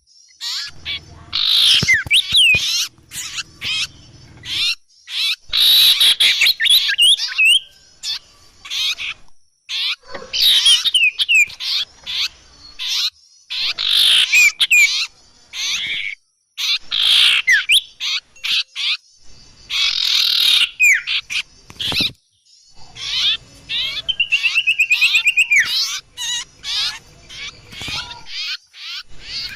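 Bird-lure recording of small songbird calls: bursts of rapid high chirps and short downward-sliding whistles every few seconds, broken by brief gaps, with a fast even trill about three-quarters of the way through.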